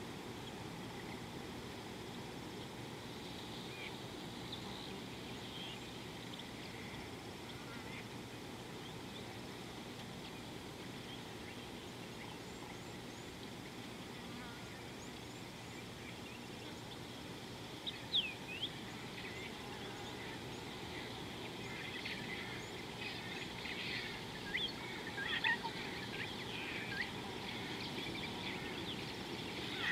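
Wild birds calling over a steady outdoor background hiss. There are a few scattered calls at first, then two sharp calls a little past halfway, and a busier run of short chirps and calls near the end.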